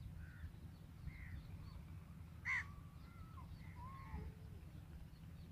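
A bird gives one loud, harsh caw about halfway through, with faint scattered chirps of other birds around it, over a low rumble.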